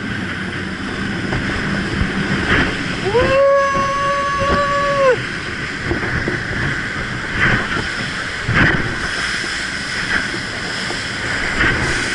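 Open jet boat running on the river, with a steady rush of engine, water and wind. About three seconds in, a long high-pitched held tone rises, holds for about two seconds, then falls away.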